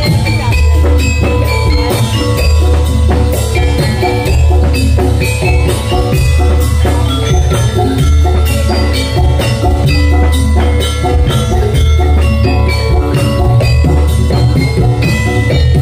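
Javanese gamelan music for a jathilan dance: metallophones play a quick, running pattern of struck notes over heavy, steady drum beats.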